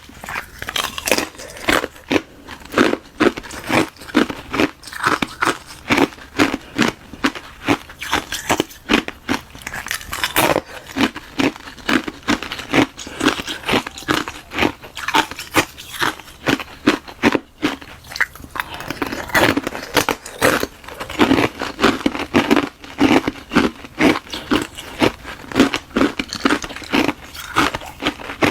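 Ice being bitten and chewed close up: a hollow shell of frozen water filled with frozen milk tea, cracking in a steady run of sharp crunches.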